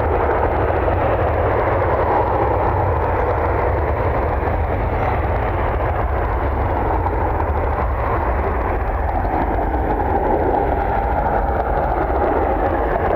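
Jet airliner engine noise: a steady rumble and roar, with an engine whine growing stronger near the end.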